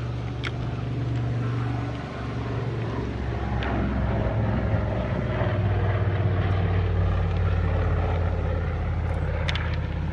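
Propeller aircraft engine droning as the plane flies past, its pitch dropping about two to four seconds in.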